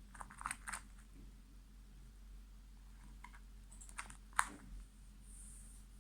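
Slime being squished and kneaded by hand, making short sticky clicks and pops: a quick cluster at the start, then a few more around three to four and a half seconds in.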